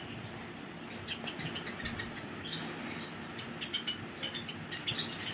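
A colony of small cage birds chirping, with many short high calls scattered through, growing busier about halfway in.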